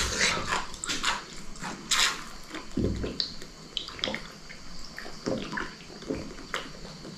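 Someone slurping and eating hot instant noodles: a run of short, irregular, wet slurps.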